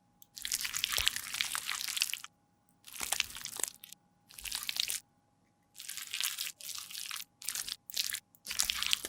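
Makeup being crushed or scraped with a tool in a series of crunchy, crackly strokes, about eight of them, with short pauses between.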